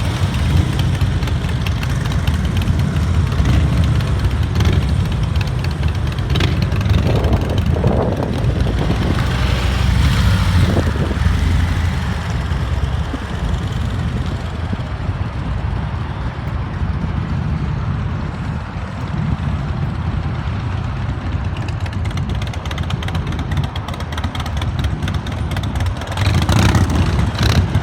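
Motorcycle engines running, with a steady low rumble that swells louder around eight to eleven seconds in and again near the end.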